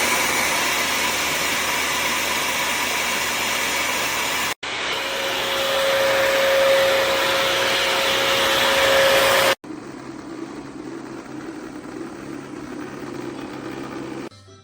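Vacuum cleaner motor running with a steady rush of air, in three cut-together stretches: a steady whine rides over the middle one, and the last one is quieter.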